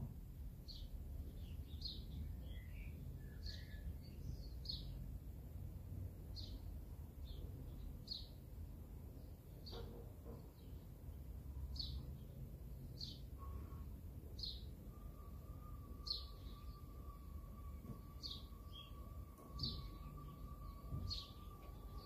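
A bird repeating a single short, high chirp about once every second or so, over a low rumble of wind and outdoor noise. A faint steady tone comes in about two-thirds of the way through and holds.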